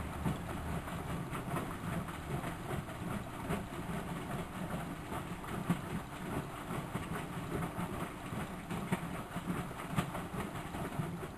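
Miele W763 front-loading washing machine running, a steady low motor-and-drum hum with a continuous light rattle. The sound drops off noticeably right at the end.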